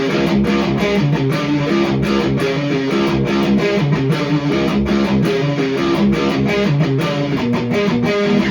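Electric guitar riffing continuously through a Hiwatt Hi-5 EL84 tube amp, with dense, fast-picked notes. This is the amp's own tone with the boost pedal switched off.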